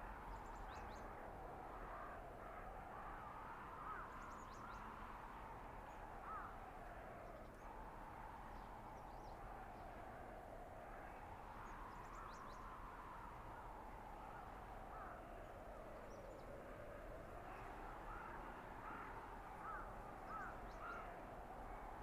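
Faint winter-forest blizzard ambience: wind howling with a slow rise and fall in pitch, over a steady hiss, with short bird calls scattered through it.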